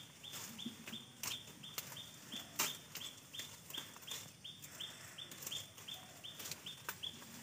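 A bird calling, one short high note repeated about three times a second and stopping near the end, over the rustle and snap of tea bushes as shoots are plucked by hand.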